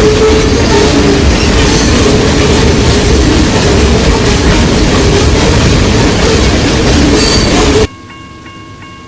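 Train rolling past close by, a loud steady rush of wheels on rail with a squealing tone from the wheels. Near the end it cuts off suddenly to a quiet steady high tone.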